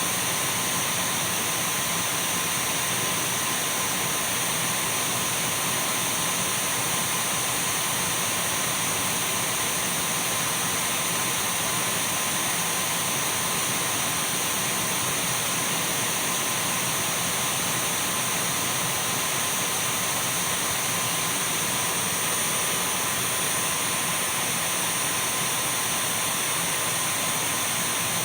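Dyson V12 cordless stick vacuum cleaner running steadily: a constant rush of air with a thin, high whine over it.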